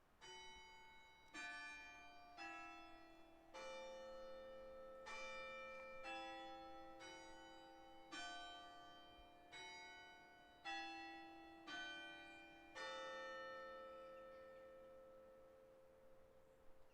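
Faint bell-like tones struck one after another, about a dozen at uneven intervals of roughly a second, each ringing on into the next; the last one dies away slowly.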